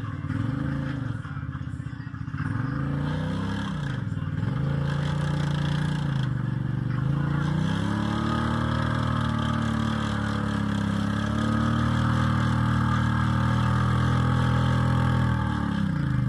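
An engine revving: a few short rises and falls in pitch, then a climb to higher revs that are held for several seconds and drop back near the end.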